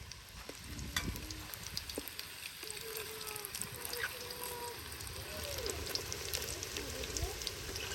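Hot oil crackling and sizzling as snacks fry, a steady patter of small pops. Faint wavering pitched sounds come and go underneath.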